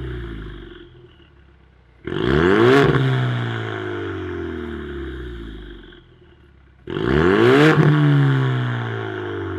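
Ford Mustang 2.3 EcoBoost's turbocharged four-cylinder revved twice through a variable valved exhaust. Each rev climbs sharply and dies away slowly over a few seconds. The tail of an earlier rev fades out at the start.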